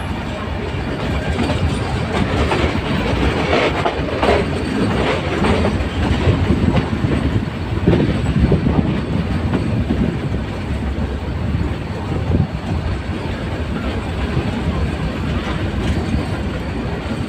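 Metre-gauge train running along the track, its wheels clattering steadily over the rails.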